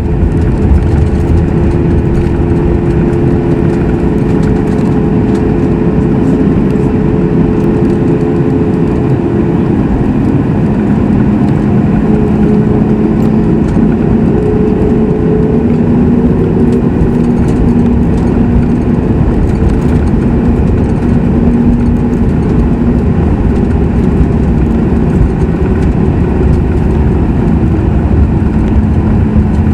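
Boeing 737 MAX 8's CFM LEAP-1B jet engines running at idle on the ground after landing, heard inside the cabin as a steady loud drone. Its humming tones drop in pitch about ten seconds in.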